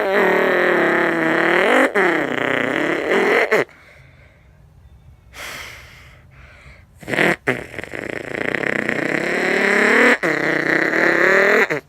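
A person imitating a car taking off with the mouth, buzzing air through nearly closed lips. The pitch dips and climbs like revving, stops about three and a half seconds in, a couple of quick breaths follow, then a second buzzing rev starts about seven and a half seconds in and grows louder until it cuts off suddenly near the end.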